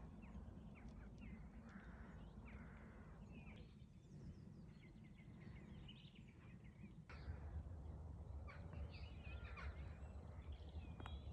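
Faint birdsong: many short chirps and whistles from small birds, over a low rumble of wind or background noise that gets louder about seven seconds in.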